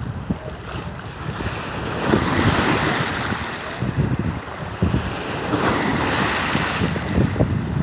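Lake waves breaking along the shoreline in a steady wash of surf that swells twice, with gusty wind buffeting the microphone as a low rumble.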